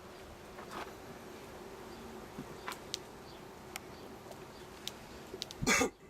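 Honeybees buzzing steadily in and around an open hive, a low continuous hum, with a few faint clicks and one short louder noise near the end.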